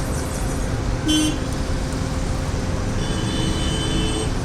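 Steady road-traffic rumble with two horn toots: a short one about a second in and a longer one, held for just over a second, about three seconds in.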